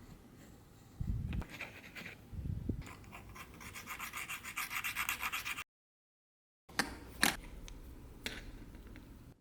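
Quick, even back-and-forth rubbing strokes by hand on a hard surface, about five a second, typical of sanding or scrubbing during a restoration. After a break, a few sharp clicks and taps follow with light handling noise.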